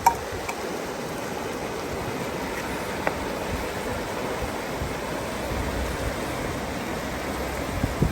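Steady rush of flowing river water, with a sharp click at the very start and fainter clicks about three seconds in and near the end.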